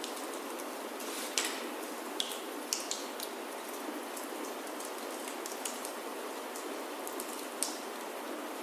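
Steady rain falling on a wooden roof, an even hiss, with scattered sharp pops from a crackling wood fire in a fireplace.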